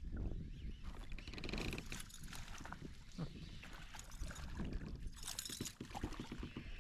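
Irregular knocks and clicks of gear being handled on a kayak, over a steady low rumble.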